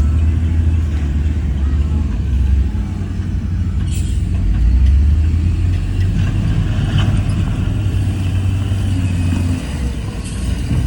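Heavy diesel engine of earthmoving machinery running with a deep, steady rumble that swells and eases, with a short hiss about four seconds in.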